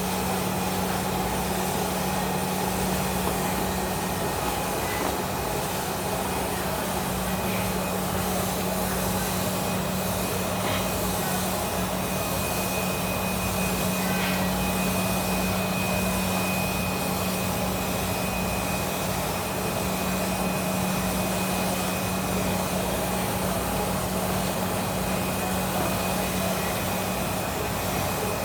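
Workshop machine running steadily: an even hiss over a constant hum.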